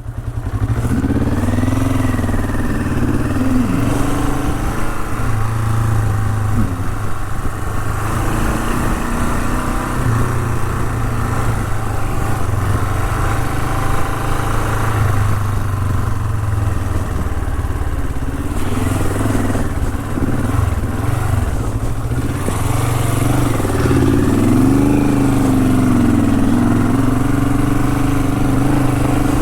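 Honda CL450's parallel-twin engine running steadily as the motorcycle rides uphill on a gravel trail, its revs rising and falling again and again with the throttle.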